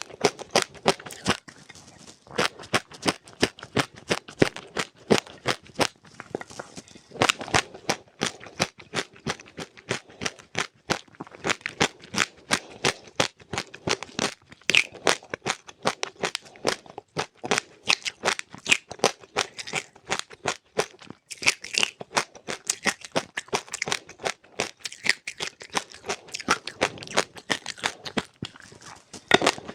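Chewing a mouthful of crunchy seeds with passion fruit: a steady run of sharp crunches, several a second.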